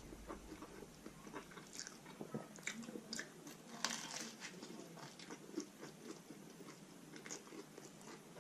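Faint, close-up chewing with irregular crunches as a person bites and chews a hard whole wheat taco shell filled with chicken, beans and salad. The loudest crunch comes about four seconds in.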